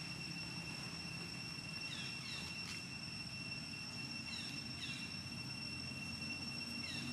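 Outdoor ambience: a steady high insect drone, with pairs of short falling bird chirps a few times over a low background rumble.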